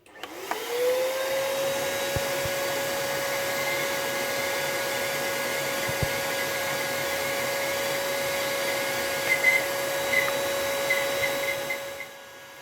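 Smoke leak-detection machine's electric air pump switched on: its whine rises over the first second to a steady pitch and runs evenly with a hiss of air, then cuts off near the end. It is feeding smoke into the engine's intake to find a vacuum leak.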